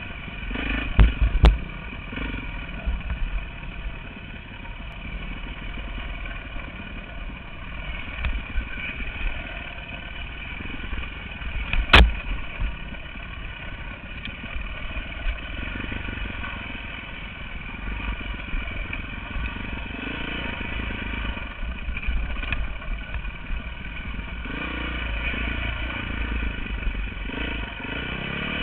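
Dirt bike engine running as the bike is ridden, with a few sharp knocks about a second in and one near the middle.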